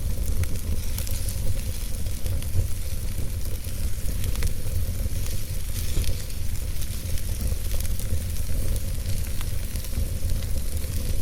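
Logs burning in a fireplace: dense small crackles and pops over a steady low rumble.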